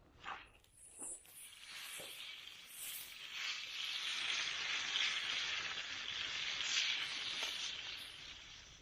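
Pork ribs and potatoes sizzling as they fry in a pan, a few light clicks at first, then a steady high hiss that swells about a second and a half in and fades near the end.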